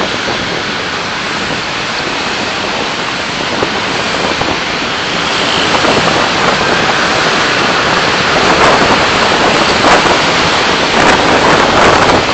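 Road and wind noise of a car driving, picked up by a dashcam, growing louder from about six seconds in.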